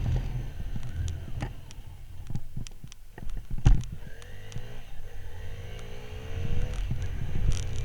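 Motorcycle engine running while riding, with rumbling wind and road noise. The engine pitch rises a few seconds in as it speeds up. Scattered knocks, the loudest a sharp one about halfway through.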